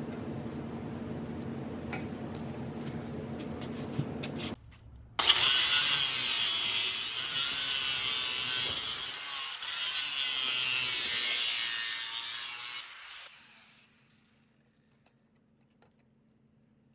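A power tool cutting through pipe: a loud, harsh rasping hiss that starts about five seconds in, runs for about seven seconds, then cuts off and dies away. Before it there is a steady low hum.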